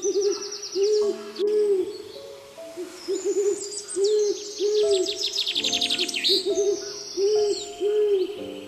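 Hooting calls: short, low, rounded notes repeated in twos and threes, with higher bird chirps and trills over them.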